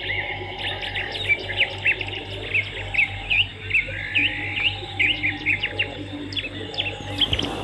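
Swiftlets twittering: many quick, overlapping chirps over a steady low electrical hum, with a short burst of noise near the end.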